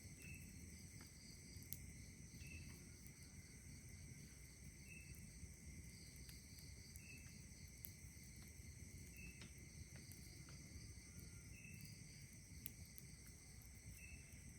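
Night insects, crickets among them, trilling steadily at several pitches, with a short call repeating about every two seconds. Faint scattered crackles from a campfire and a low breeze rumble lie underneath.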